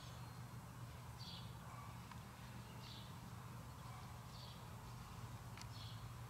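Faint bird chirps: a short, falling call repeated about every second and a half, over a steady low hum.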